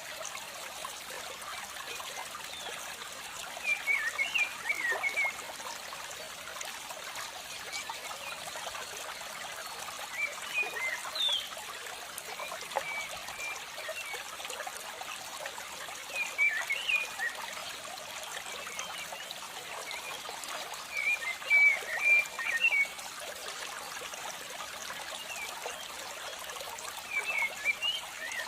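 A steady trickling hiss like running water, with short bursts of high chirping calls every five or six seconds.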